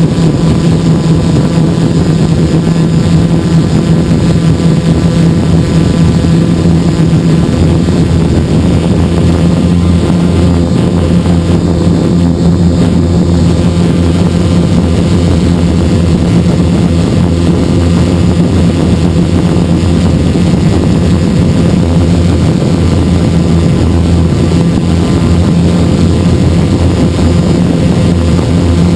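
Electric motors and propellers of a hexacopter in steady flight, heard from the camera mounted on the craft: a loud, even buzzing hum made of several close, steady pitches.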